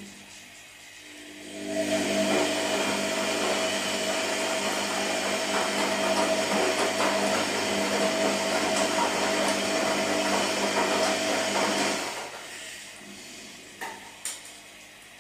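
Washing machine running a stretch of its cycle: the motor starts about a second and a half in, turns the drum with a steady hum under a loud churning noise, and stops about ten seconds later, followed by a couple of short clicks.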